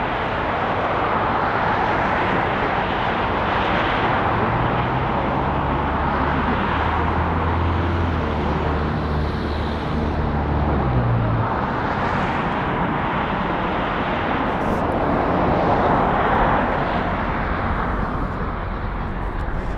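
Jet airliner engine noise at an airport: a steady, loud rushing sound that swells and eases a little. A low hum sits underneath for several seconds around the middle.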